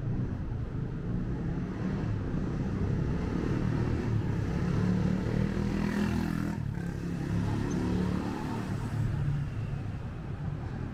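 Street traffic: a motor vehicle passes close by, its noise swelling to a peak about six seconds in and then fading, over a steady low rumble.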